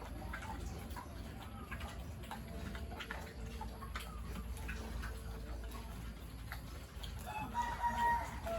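A rooster crowing once near the end, a single drawn-out call that is the loudest sound, over scattered light clicks and knocks.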